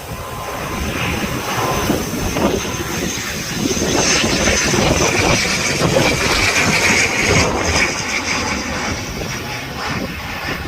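ATR 72 turboprop airliner's engines and propellers, a high whine over a steady rumble, growing louder over the first few seconds and easing slightly near the end.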